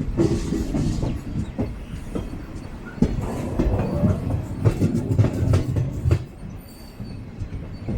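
DEMU train's wheels clattering over rail joints and points, with an irregular run of knocks over a low running rumble, as the train crosses onto the loop line. The clatter eases briefly near the end.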